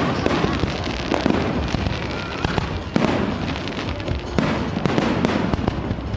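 Aerial fireworks display: a dense run of bangs and crackling bursts, with heavier reports about three and four and a half seconds in and a few faint whistles.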